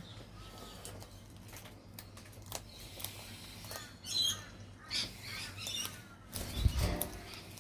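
Birds calling close by in short squawks and chirps, several in quick succession in the middle. A loud low rumble comes near the end.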